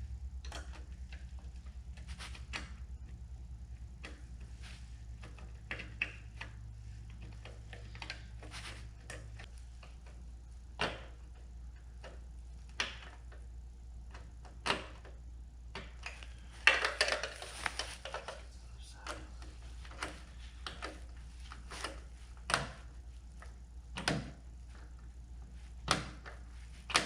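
Separate clicks and knocks of hand tools and parts every second or two, with a busier cluster of clatter about two-thirds of the way in, as a bowtie emblem is fastened to a truck grille. A low steady hum runs underneath.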